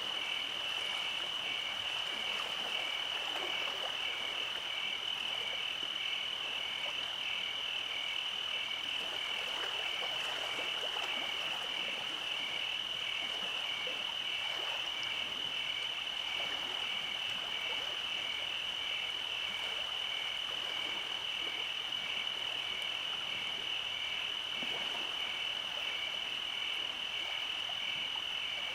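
Night chorus of frogs and insects: a steady, high-pitched trill runs unbroken, with a second call pulsing at a regular beat just below it.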